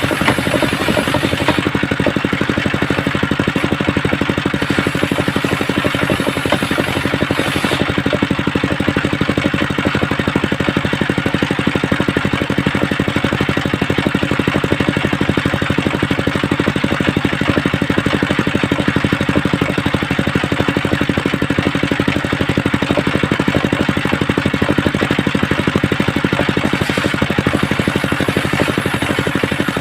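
Engine of a homemade circular sawmill running steadily at an even pitch.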